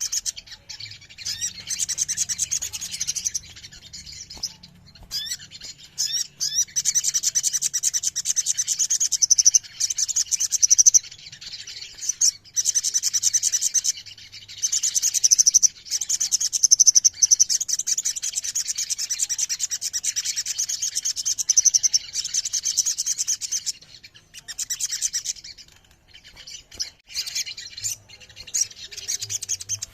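Several sogon (sogok ontong) birds singing together in fast, high-pitched trills and chirps that overlap almost without a break. The song stops briefly a few times.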